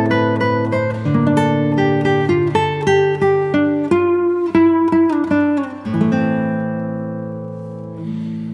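Instrumental music on acoustic guitar: a melody of plucked notes over held bass notes, then a chord left ringing and slowly fading from about six seconds in before new notes start near the end.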